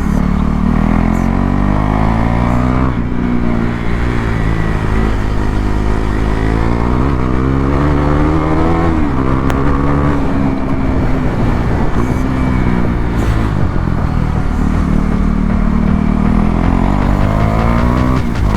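KTM Duke 390's single-cylinder engine under hard riding, its pitch climbing with the revs and dropping back several times as it shifts or rolls off.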